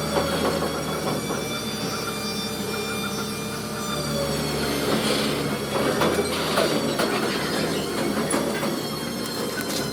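Heavy machinery giving a steady metallic squeal, several high tones held over a low rumble, with scattered clicks and knocks.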